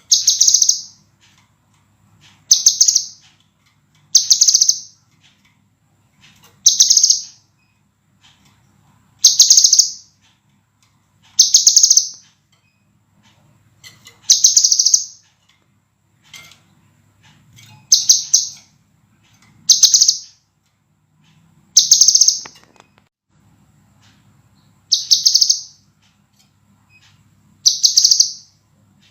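Scarlet minivet (sepah raja) calling: short, clear, sharp high notes, one about every two seconds, each lasting under a second.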